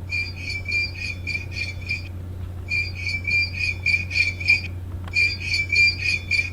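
High-pitched electronic beeping, rapid beeps on one fixed pitch in three runs of about two seconds each, like an alarm going off.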